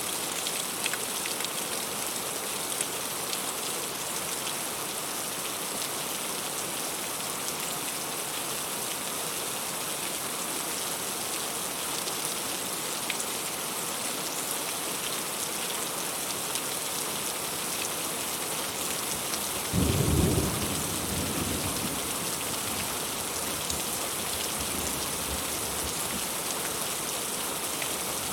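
Heavy rain falling steadily on a fruit tree, with one clap of thunder about twenty seconds in that rumbles on for a couple of seconds.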